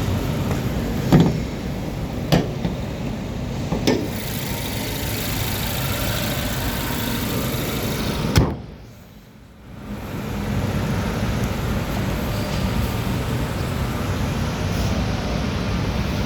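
A car running with a steady low hum, with short sharp knocks about one, two and four seconds in and another about eight seconds in. The sound drops away briefly just after the last knock, then the steady hum returns.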